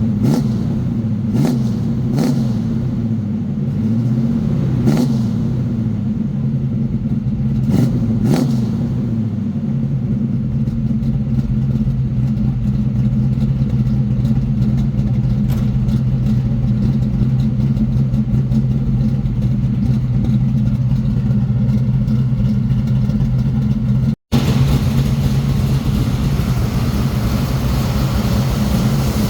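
1979 Chevy Monte Carlo's small-block 400 V8 running through its newly fitted exhaust. It is revved several times in the first few seconds, pitch rising and falling with a few sharp pops, then settles into a steady idle. There is a brief break in the sound about 24 seconds in.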